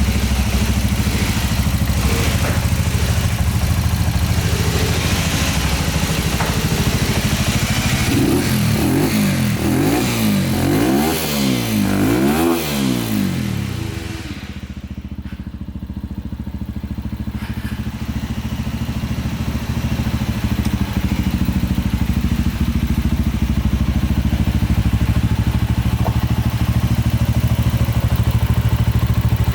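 Lexmoto ZSX-R 125's single-cylinder engine running at idle. It is revved about four times in quick succession around the middle, then settles back to a steady idle.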